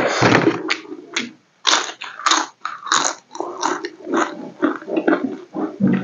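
Close-miked eating: biting and chewing food eaten by hand, an irregular run of wet mouth sounds and short crisp crunches.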